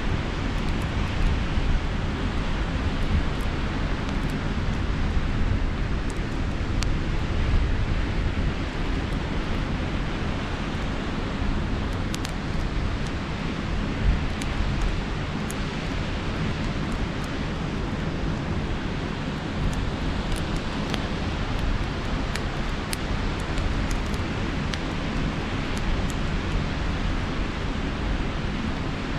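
Campfire crackling with scattered sharp pops, over a steady wash of sea surf and a low wind rumble on the microphone.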